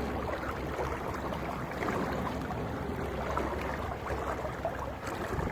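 Small boat under way on a lake: a steady low hum with water and wind noise.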